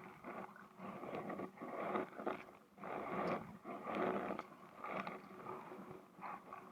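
Kayak paddle strokes in the water: rhythmic swishing and splashing, about one stroke a second.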